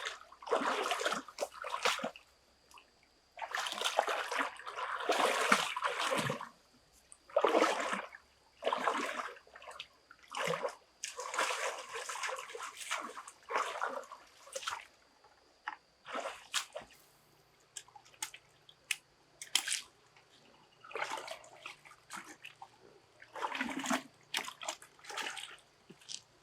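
Water splashing and sloshing in irregular bursts. The bursts last one to three seconds in the first half and become shorter, sparser splashes later on.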